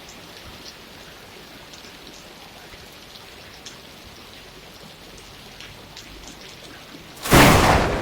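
Steady rain with scattered drips falling, then a sudden loud crack of thunder near the end that goes on rumbling.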